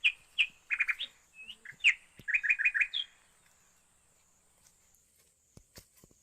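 A songbird calling: quick high chirps and short whistles, some in rapid runs of four or five notes, for about three seconds, then only a few faint clicks.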